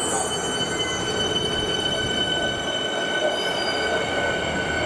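Electric suburban train running on the rails, a steady rumble with a steady high-pitched wheel squeal held throughout.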